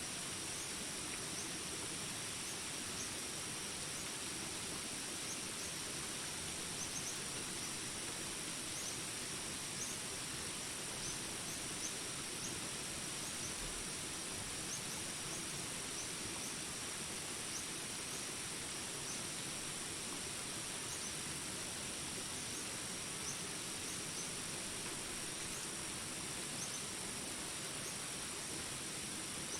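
Jungle ambience of steady rain hiss with a continuous high-pitched insect drone, and faint short chirps scattered throughout.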